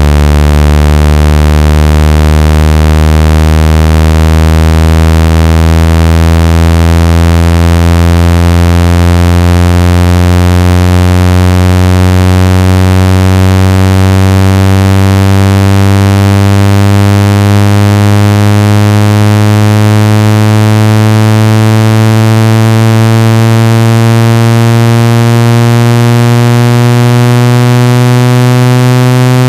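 Synthesized water-ejection tone for clearing a phone speaker: a loud, rich buzzing tone whose pitch rises slowly and steadily, played to vibrate water and dust out of the speaker grille.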